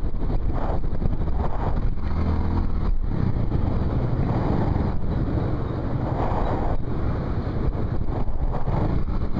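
A motorcycle being ridden in traffic, heard from the rider's helmet camera: the engine and road noise run steadily under strong wind rushing over the microphone.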